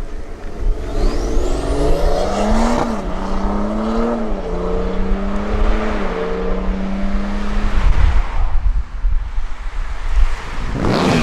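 A car accelerating hard away through its gears: the engine note climbs, then drops at each of about four shifts, and fades after the last one. Near the end another vehicle passes close with a quick rise and fall of engine noise. Wind buffets the microphone throughout.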